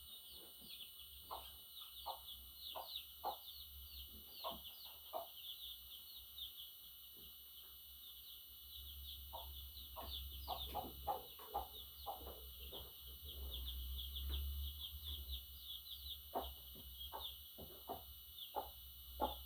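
Budgerigar chattering: a fast, continuous stream of short high chirps mixed with brief lower clicking calls, over a low rumble that swells in the middle.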